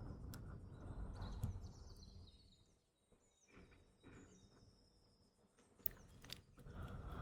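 Close-miked ASMR mouth sounds, soft wet clicks and smacks, a few sharp ones near the start, about a second and a half in and around six seconds, over faint chirping of morning birdsong through the middle.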